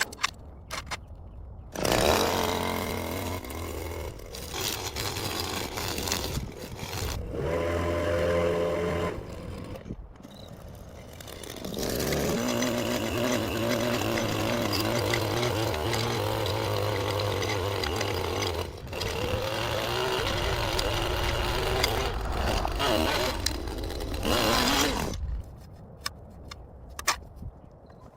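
Small petrol engine of a yard power tool running hard from about two seconds in, its pitch wavering as it is revved up and down. It dips or stops briefly a few times and cuts out near the end.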